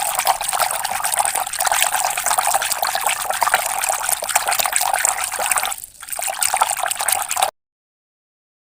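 Water running and splashing in a steady hiss, briefly dropping out about six seconds in, then cutting off abruptly to dead silence a little over a second before the end.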